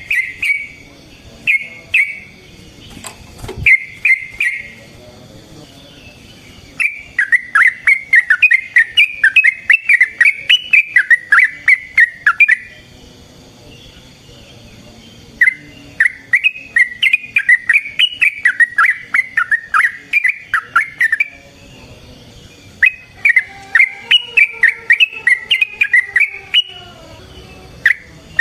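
Yellow-vented bulbul (trucukan) singing. A few short chattering calls give way to three long, fast runs of bubbling notes, each lasting several seconds, with short pauses between them.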